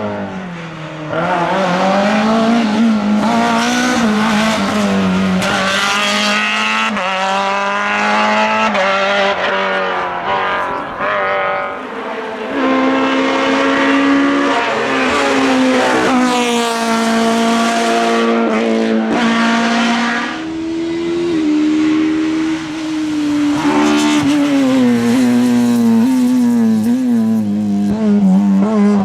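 Naturally aspirated Group F2000 rally car engines at full attack, revving hard with the pitch climbing and dropping again and again through gear changes and lifts off the throttle.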